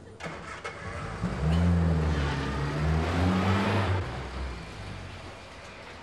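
Classic Mini's four-cylinder engine revved several times, its pitch rising and falling, then dropping back to a quieter run about four seconds in.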